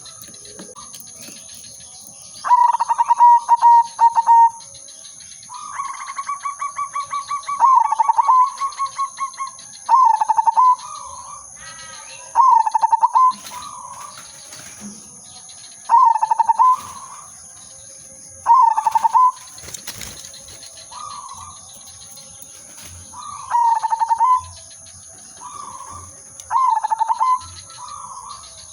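Zebra dove (perkutut) singing: about eight short cooing phrases, each a quick stutter of notes ending in a held coo. The second phrase is the longest, with a fast rattling run before its coo.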